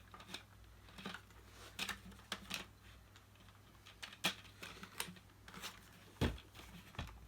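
Scattered plastic clicks and taps as the clear-bin of a Dyson DC50 is fitted back onto the vacuum body and worked against its clip, with a heavier knock a little over six seconds in.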